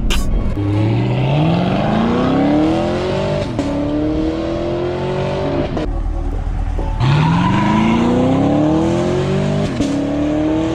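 Chevrolet Camaro ZL1's supercharged V8 accelerating hard from a launch, its pitch climbing steeply, dropping at a gear change and climbing again. About seven seconds in, a second launch starts low and rises the same way, with another upshift near the end.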